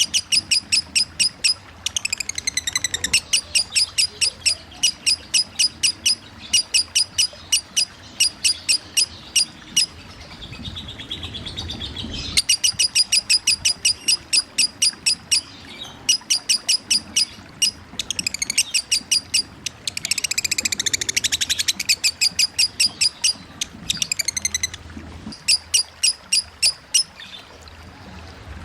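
Lovebird singing in long runs of rapid, evenly repeated high chirps, about five a second (the "ngetik" chatter), broken by a few short squealing phrases that glide down. Flowing water runs steadily underneath.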